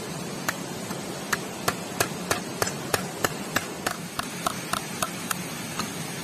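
Steady rush of a stream with a run of sharp, regular knocks, about three a second, starting half a second in.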